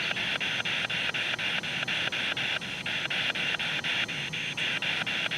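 Spirit box radio sweeping through stations: steady static hiss chopped into short pulses about seven times a second.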